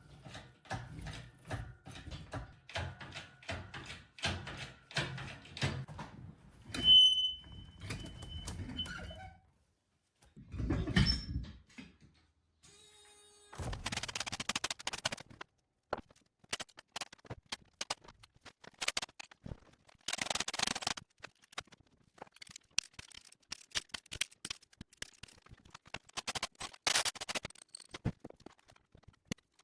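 Irregular clicks, clinks and knocks of hand tools and metal parts being handled, with a brief high squeal about seven seconds in and a single louder dull thump about eleven seconds in.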